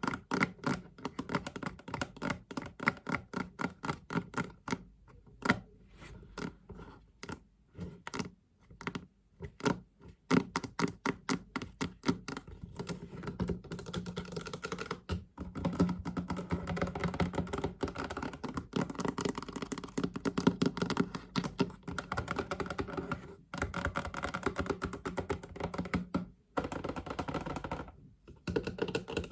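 Fast tapping on a chest: a rapid run of many small taps, more spaced out for several seconds in the middle, then dense again, with a few brief pauses near the end.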